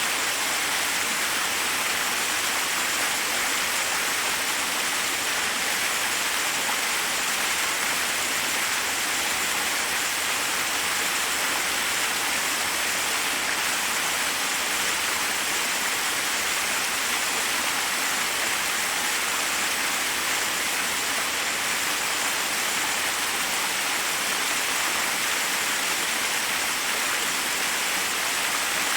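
Forest waterfall rushing steadily, water cascading over rocks as an even hiss with little low rumble.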